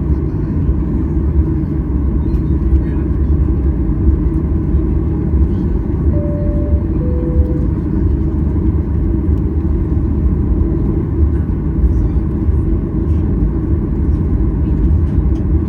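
Steady low rumble of a Boeing 737-800's engines and airflow heard inside the passenger cabin. About six seconds in, a two-note high-low cabin chime sounds once.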